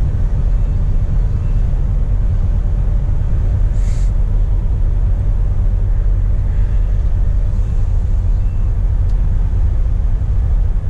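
Scania P420 truck's diesel engine running with a steady low rumble, with a short hiss about four seconds in.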